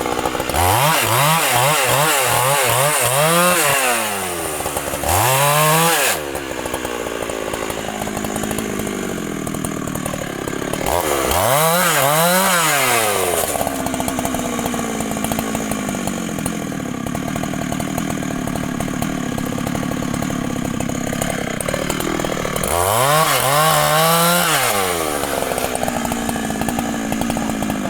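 Large two-stroke Husqvarna professional chainsaw idling, revved up in four bursts (a run of quick throttle blips at the start, then single rises and falls at about 5, 12 and 24 seconds), settling back to idle between them.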